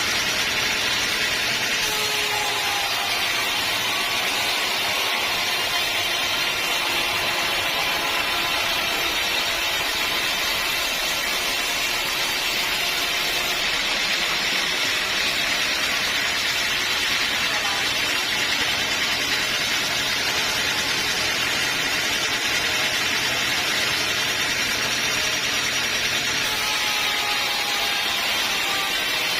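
Sawmill blade running steadily through a teak log, a continuous even sawing noise with no breaks.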